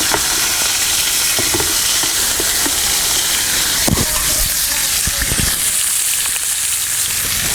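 Chicken pieces frying in hot oil in a karahi: a steady sizzle, with a few soft knocks near the middle.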